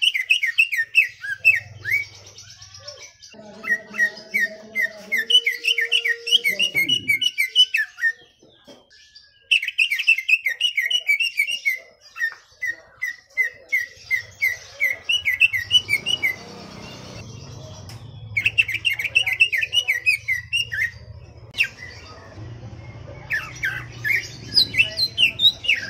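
Leafbird (cucak ijo) singing in its full 'gacor' song: fast runs of repeated chattering notes, five phrases broken by short pauses. A low steady hum sits underneath from about halfway.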